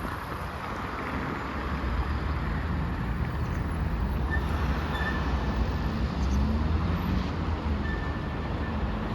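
City street traffic going past, with wind blowing on the microphone.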